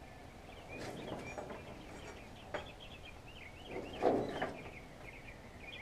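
Birds chirping and twittering continuously in short, wavering calls. Two brief rustling, scraping noises break in, one about a second in and a louder one about four seconds in.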